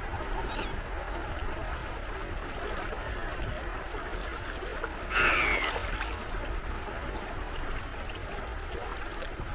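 Gentle sea waves washing at the shore, a steady water hiss over a low rumble. About five seconds in a bird gives one loud, harsh call, with a fainter call near the start.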